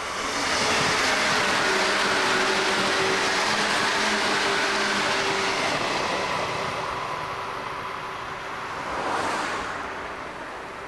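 A passenger train passing close by at speed: a loud rush of running noise that sets in sharply, with a steady hum under it. The rush slowly fades, with a brief swell near the end.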